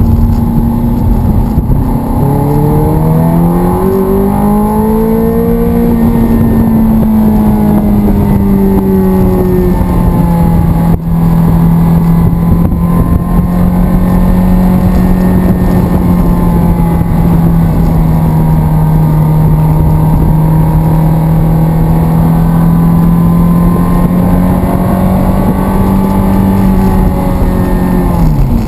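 Sports car engine heard from inside the cabin on a track: it revs up over the first few seconds, holds a steady, loud drone at speed, then drops sharply near the end as the driver lifts off.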